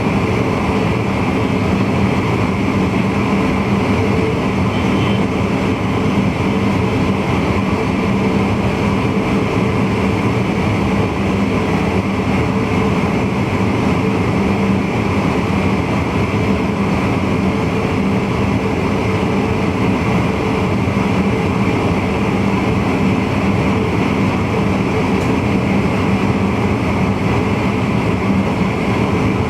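VIRM double-deck electric multiple unit running at steady speed, heard from the driver's cab: a continuous rolling and running noise with a steady hum underneath.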